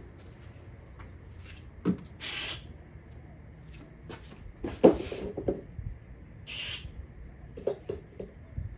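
Two short hissing squirts from an aerosol can of electronics cleaner, with scattered knocks and clicks of parts being handled; the loudest is a sharp knock about five seconds in.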